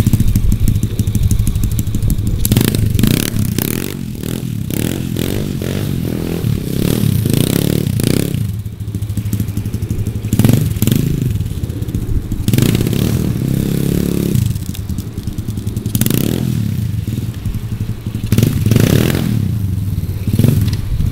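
Pit bike engine running and revved hard again and again, the revs climbing and dropping in repeated bursts, as the bike is spun round doing donuts in snow. The bike is a Gio 125.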